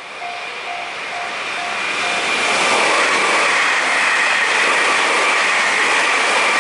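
Japanese level-crossing warning bell dinging about twice a second. About two seconds in, a passing train's noise rises and holds loud with a steady whine, drowning the bell out.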